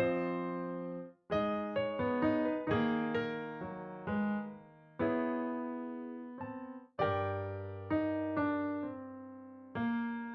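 A piano sound playing a slow chord progression from a MIDI file, each chord struck and left to fade. The sound drops away briefly about a second in and again about seven seconds in before the next chords start.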